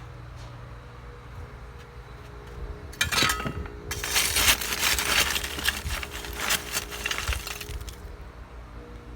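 A burst of clinking, crackling clatter of hard objects starts sharply about three seconds in and lasts about five seconds, over a steady low hum.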